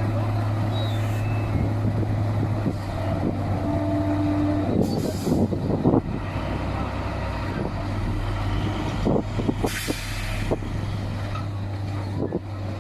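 Heavy truck engine running steadily on a hill climb, with short hisses of air about five seconds in and again near ten seconds.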